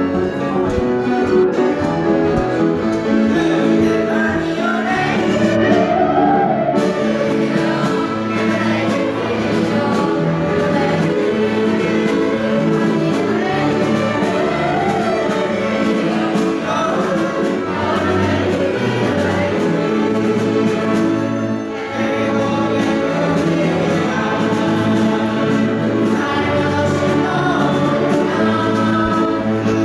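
A school choir singing a yodel song with instrumental accompaniment.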